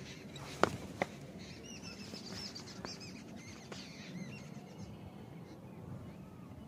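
Small birds chirping in a quick run of short, high calls, with two sharp clicks just under a second in and a low rustle on rock underneath.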